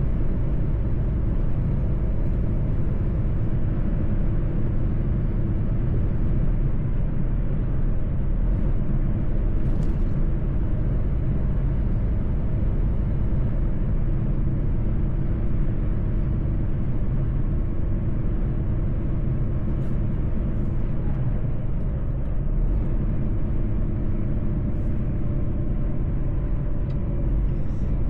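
Mercedes-Benz truck driving at a steady pace: a constant low engine drone and road rumble, with a few faint clicks.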